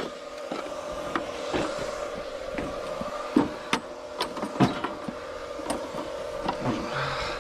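Scattered knocks, clunks and rattles of old lawn mowers being handled, over a steady engine hum.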